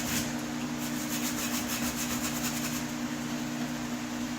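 Rapid back-and-forth scrubbing on a metal HVAC register, working off old paint that the degreaser has loosened, with a steady low hum underneath.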